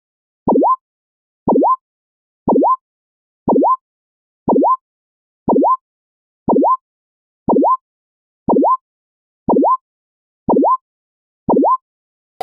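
Electronic chirping beep repeated twelve times, one a second, each a short quick upward sweep in pitch, with silence between.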